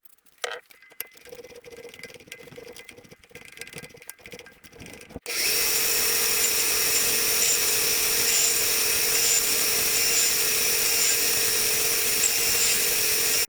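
Faint ticking and scraping of hand work with metal tools. About five seconds in, a small electric power tool's motor comes in suddenly and runs at a steady speed with a constant whine.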